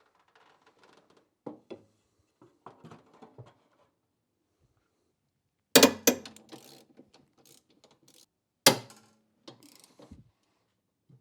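Hand tools working on the engine-mount bolts: a socket wrench ratcheting and metal clicking, with two louder sharp clanks about six and nine seconds in.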